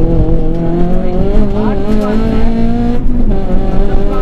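Rally car engine pulling hard under acceleration, heard from inside the cabin, its pitch rising steadily, then dropping suddenly about three seconds in at an upshift before it pulls on in the next gear.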